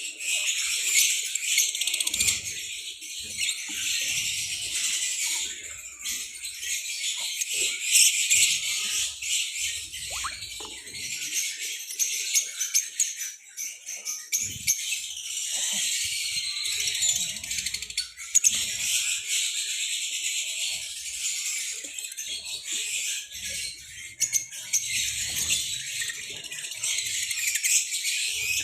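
A flock of lovebirds chattering continuously, a dense mass of shrill, rapid chirps and squeaks.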